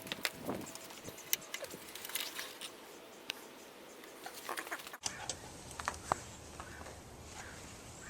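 Scattered light clicks and taps from handling tools and parts, irregular rather than rhythmic; about five seconds in the background changes abruptly to a low steady hum.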